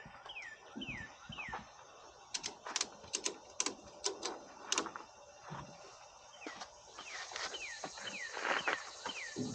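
Ratchet tie-down strap clicking as it is cranked tight on the motorcycle's front forks, a run of sharp clicks in the middle. A bird calls at the start and again near the end, repeating a short falling whistled note.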